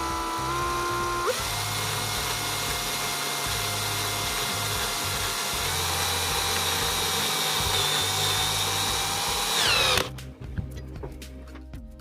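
A power tool's electric motor running with a steady whine that shifts pitch twice, then winds down and stops as it is switched off about ten seconds in.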